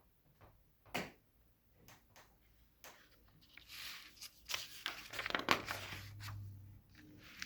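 Paper rustling and crinkling with a few handling clicks, as a page of a picture book is turned; a sharp click about a second in, then a longer rustle through the second half.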